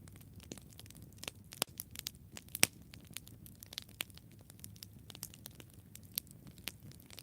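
Campfire burning and crackling: irregular sharp pops and snaps from the burning wood over a low steady rumble, with the loudest pop a little after two and a half seconds in.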